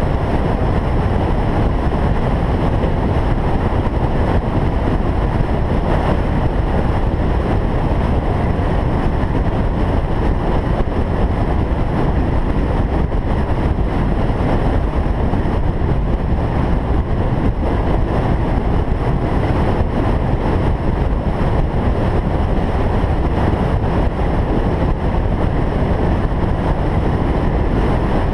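Steady driving noise of a single-turbo Toyota Supra: engine and road rumble at an even speed, with no revving or gear changes.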